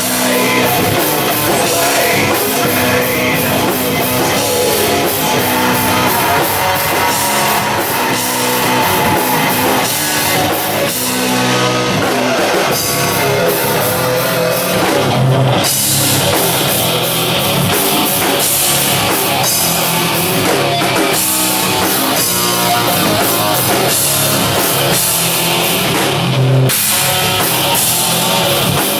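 Live rock band playing loud, heavy music on electric guitars and a drum kit.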